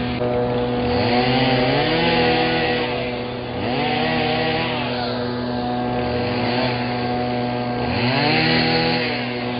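Small gas engine on a handheld trimming tool revving up and dropping back four times, the third rev weaker, over a steady hum.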